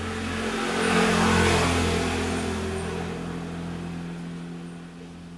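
A motor vehicle passing by, growing louder to a peak about a second in and then slowly fading away, over a steady low hum.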